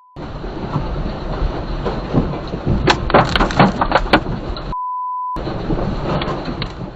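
Rough, rushing noise from amateur disaster footage, with a cluster of sharp knocks about three to four seconds in. About five seconds in, a short steady beep cuts over it: a censor bleep.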